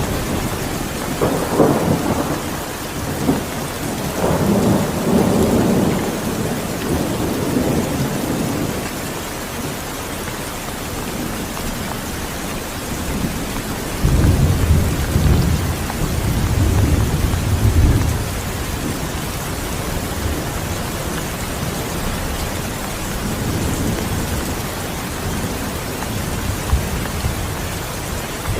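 Steady heavy rain with rolling thunder: low rumbles swell near the start and again about halfway through, over a constant hiss of rainfall.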